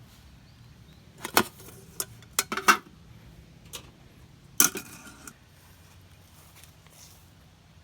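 Several sharp clinks and clatters of hard objects being handled, in short groups: about a second in, a cluster around two and a half seconds, and the loudest near five seconds.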